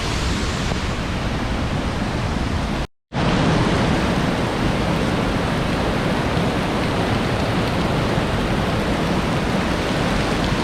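Steady rushing of the Nooksack River's waterfall. The sound cuts out completely for a moment about three seconds in, then comes back slightly louder and fuller in the low end.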